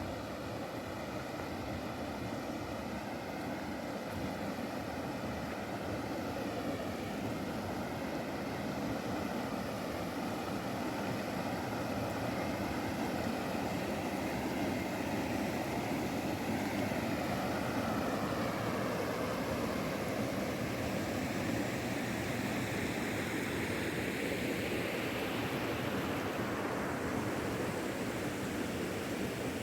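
Car driving: steady engine and road noise with a faintly wavering engine note, getting a little louder and hissier in the second half.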